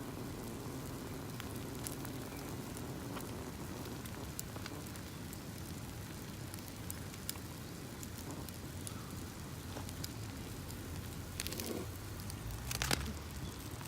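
Wood campfire crackling, with many small sharp pops over a steady hiss and a few louder snaps near the end.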